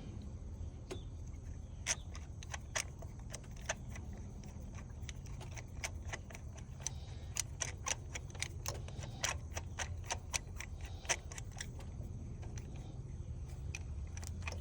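Irregular light metal clicks and clinks from a spark-plug socket and extension as a new spark plug is turned by hand into the Mustang V6's cylinder head, over a steady low hum.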